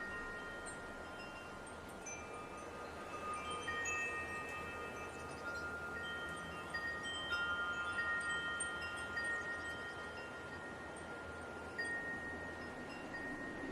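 Wind chimes ringing in a light breeze: several overlapping tones at different pitches, each struck note ringing on for a second or more, over a soft steady hiss.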